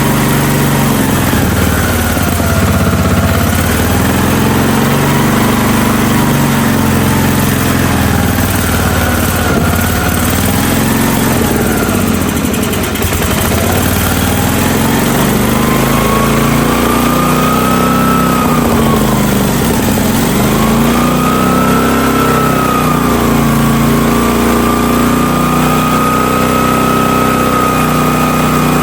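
The 16-horsepower gas engine of a Hotsy pressure washer running steadily, its speed rising and falling unevenly every few seconds.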